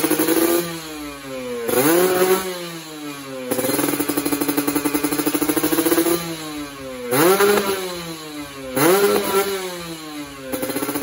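Kawasaki Ninja SS's 150 cc two-stroke single-cylinder engine running with the throttle held open, then let back and blipped. There are three quick revs, near two, seven and nine seconds in, each rising sharply and falling away before the engine settles back to a steady held speed.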